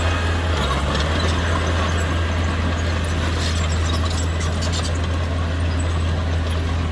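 Heavy-equipment diesel engine running steadily with a deep hum, and a run of faint clicks in the middle.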